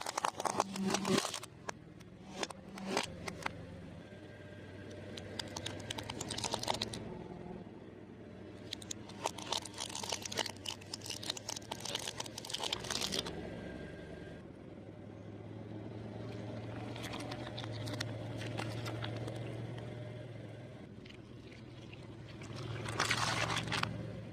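Crunchy chewing of fried food, close to the mic, in several bursts of crackling bites. Between the bites a low steady hum rises and falls, strongest in the quiet stretch after the middle.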